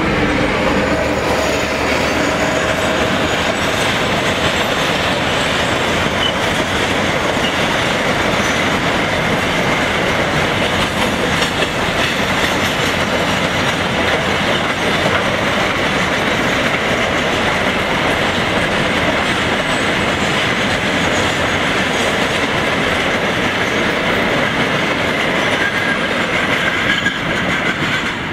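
Empty freight train rolling past close by: a loud, steady rumble and rattle of the empty wagons running over the rails, with the clatter of wheels over rail joints.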